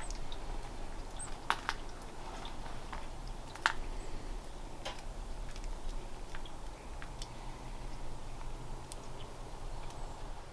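Scattered sharp clicks and light taps, a second or more apart, over faint steady background noise: handling of the feeder cable and its fittings while it is being hung.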